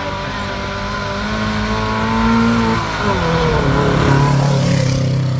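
Car engine accelerating hard, climbing in pitch. About three seconds in the pitch drops sharply, then the engine pulls again on a lower note and grows louder.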